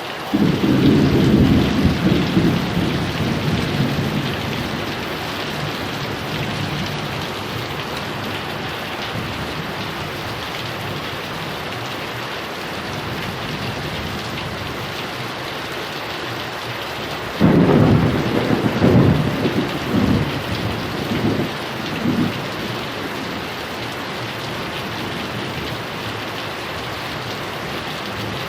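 Heavy rain falling steadily, with two rolls of thunder: one right at the start that fades over a few seconds, and a second about seventeen seconds in that rumbles in several surges for about five seconds.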